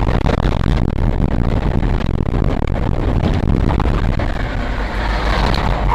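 Steady engine and road rumble of a vehicle driving, as picked up by a dashcam microphone.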